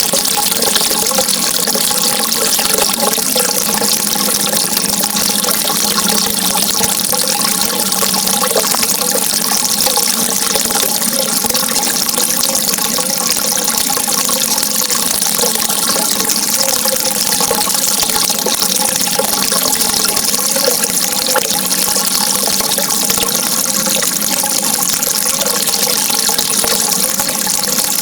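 Steady rushing water, a constant hiss with no pauses, and faint steady tones underneath.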